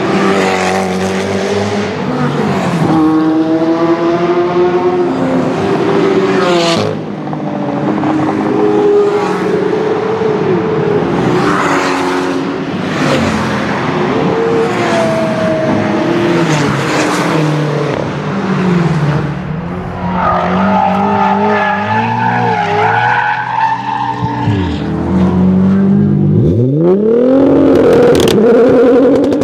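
Hypercar engines accelerating hard down a race track, the pitch climbing and then dropping with each gear change. Near the end a car's engine is revved sharply up and down several times.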